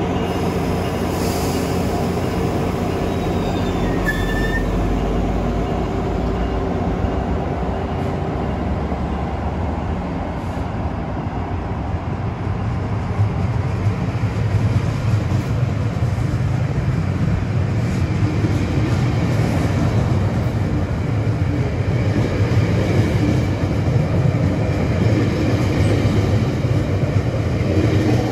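A GO Transit bilevel commuter train departing. The coaches rumble steadily along the track, and the sound grows louder about halfway through as the train gathers speed.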